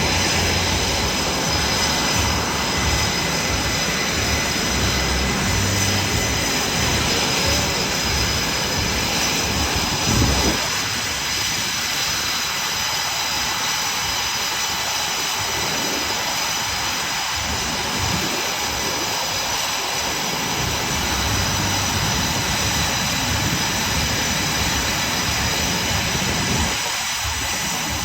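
Jets of the Blue Angels, F/A-18 Super Hornets, running: a steady, loud jet roar with a high whine held over it; the deepest part of the roar thins out a little after about ten seconds.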